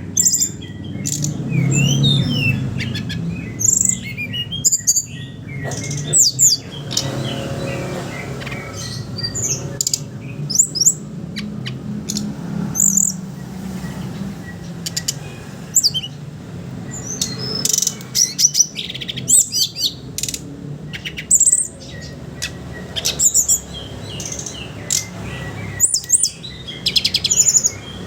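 Brown-chested jungle flycatcher (sikatan rimba dada coklat) singing: rapid twittering phrases of quick sliding high notes, repeated every second or two, over a low steady hum.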